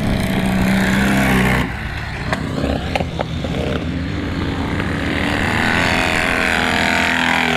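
Vintage motocross motorcycle engines running hard in a race. A loud, steady engine note cuts off abruptly a little over a second in, a few sharp knocks follow, and engine sound builds up again in the second half.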